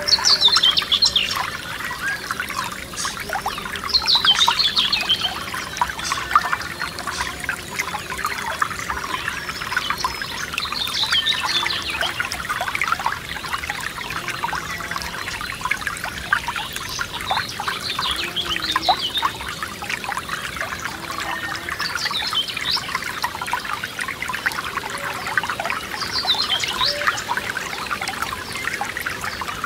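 Forest stream trickling and gurgling steadily. A bird sings a short phrase that falls in pitch, repeated about every four to five seconds.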